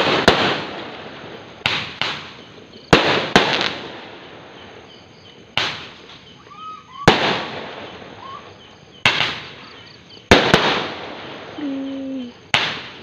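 Fireworks going off: about eleven sharp bangs at uneven intervals, some in quick pairs, each trailing off in a decaying rumble.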